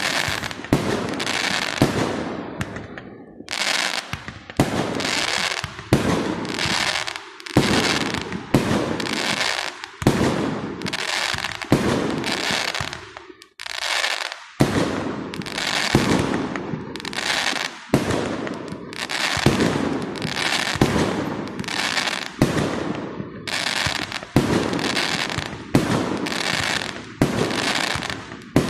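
Aerial fireworks display: a rapid run of shell bursts, about one sharp bang a second, each trailing off over a fraction of a second, with a brief lull about halfway through.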